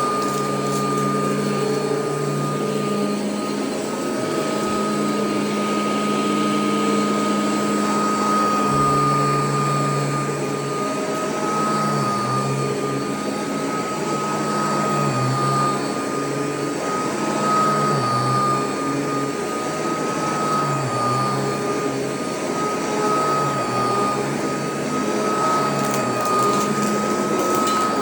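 Royal vacuum cleaner running steadily on carpet: a loud motor drone with a steady high whine, the low hum wavering in pitch from time to time.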